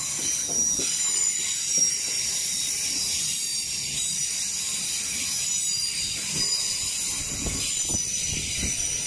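South Western Railway electric multiple unit passing through the station at speed, its wheels giving a steady high-pitched squealing ring on the rails over a low rumble, with a few knocks from the wheels near the end.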